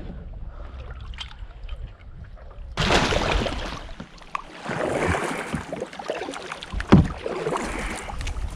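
Kayak being paddled: low rumble, then a run of long swishes starting about three seconds in, with a sharp knock about seven seconds in.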